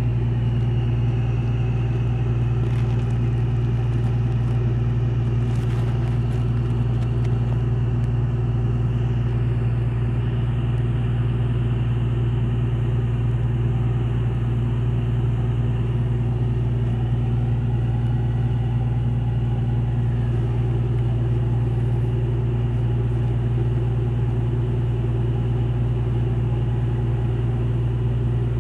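Steady low drone of marine diesel engines during berthing, a deep even hum that holds the same pitch and loudness throughout.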